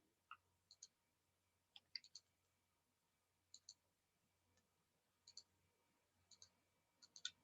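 Faint computer mouse clicks, mostly in quick pairs, coming every second or so.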